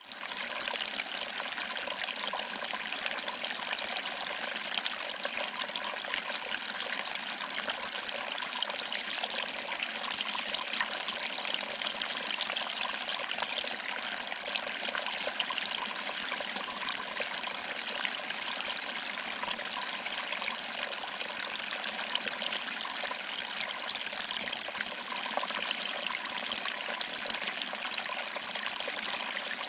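Small waterfall: water trickling over rocks and splashing into a pool below. The sound is a steady, even rush with little deep rumble.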